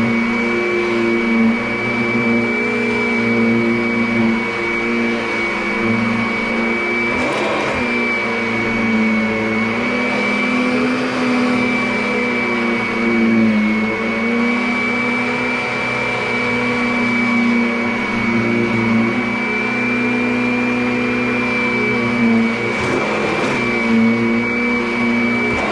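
Vacuum cleaner running steadily with a hum and a high whine, its pitch sagging slightly a few times as it works. Short knocks about a third of the way in and again near the end.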